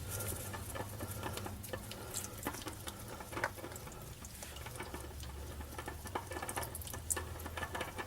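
Irregular small clicks, taps and rustles of hands and a filter wrench working a spin-on oil filter loose, over a faint steady low hum.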